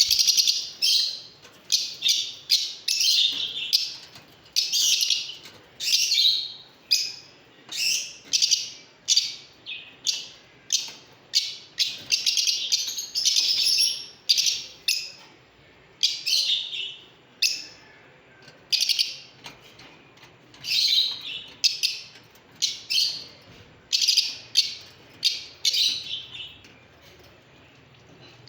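Lovebirds chirping, a near-continuous series of short, sharp, high-pitched calls that repeat every half second to a second, thinning out near the end.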